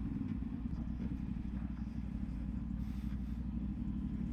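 CFMOTO 450SS parallel-twin motorcycle engine running steadily at low revs, with no revving, as the bike rolls slowly over gravel.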